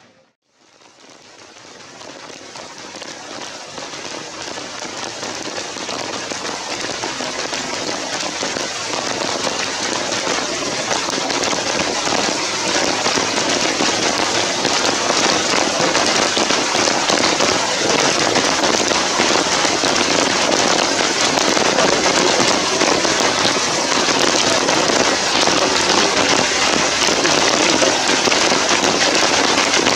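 Steady heavy rain, a dense crackling patter, fading in over the first several seconds and then holding even.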